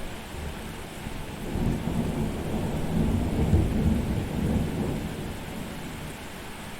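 Steady rain with a roll of thunder that swells about a second and a half in, peaks midway and rumbles away over a few seconds.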